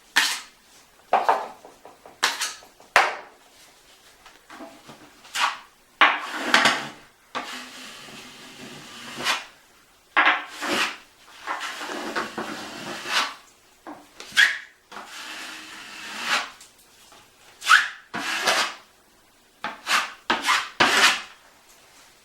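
A drywall knife scraping and spreading joint compound over patched holes in drywall, in irregular strokes of a fraction of a second to about a second, some short and sharp and some longer drawn-out scrapes.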